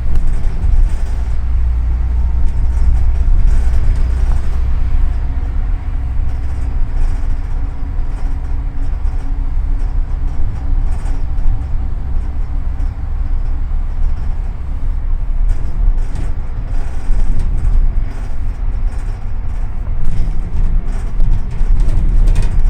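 Double-decker city bus under way, heard from inside: a steady low engine and road rumble that goes on without a break.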